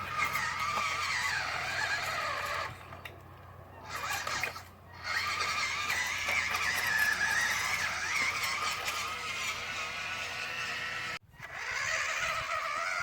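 Whine of a WPL B-1 RC truck's electric motor and converted gearbox driving it along, the pitch rising and falling with the throttle. It drops away a little before halfway, again briefly, and cuts off sharply near the end before picking up again.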